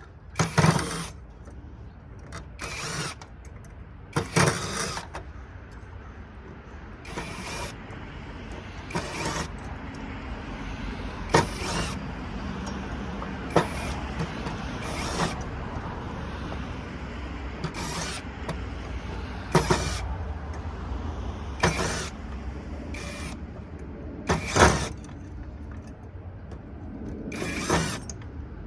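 Scrap light sockets being taken apart by hand for their brass: sharp clicks and knocks every second or two, over a low steady hum.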